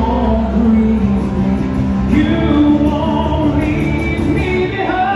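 Live rock band playing, with a singing voice holding long notes that shift pitch every second or so, sliding up into a new sustained note near the end.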